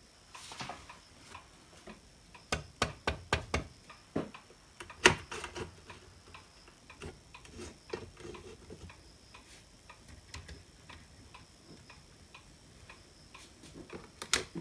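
Irregular sharp clicks and light knocks of small tools and parts being handled on a workbench, with a cluster of them about three seconds in and a louder single click about five seconds in. A faint steady high tone sits underneath.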